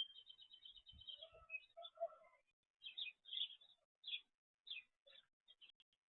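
Small songbirds chirping at a backyard feeder: a quick run of repeated high notes at the start, then scattered short chirps, with a few lower calls mixed in around a second or two in.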